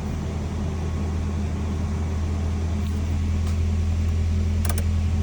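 2003 Toyota Tacoma's 2.7-litre four-cylinder engine idling steadily on a cold start, a smooth low hum. A couple of sharp clicks come near the end.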